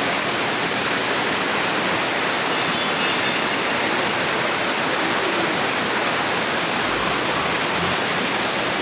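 Heavy rain falling, a loud, steady hiss that doesn't let up.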